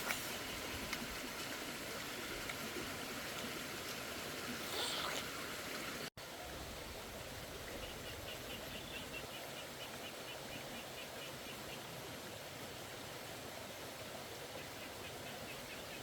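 Steady rush of flowing water, broken by an abrupt cut about six seconds in. In the second half a fast, evenly pulsed high chirping trill comes in twice.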